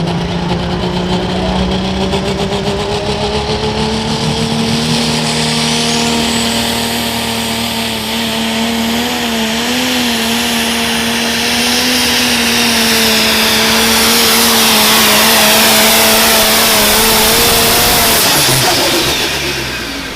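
Pro stock pulling tractor's turbocharged diesel engine running hard under load down the track, a high turbo whine climbing about five seconds in and the pitch wavering briefly near the middle. About two seconds before the end the engine shuts off and the whine falls away.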